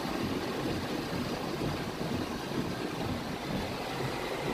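Heavy rain pouring down on a car, a steady rushing noise with no breaks.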